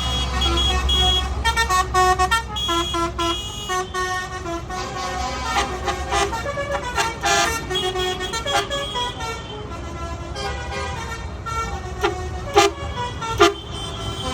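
Horns on passing tractors tooting over and over in short notes, over the low rumble of their engines, which is heavier for the first few seconds.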